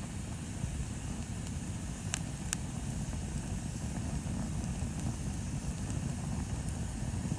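Bonfire burning with a steady low rumble and occasional sharp crackles of burning wood, two distinct pops about two seconds in.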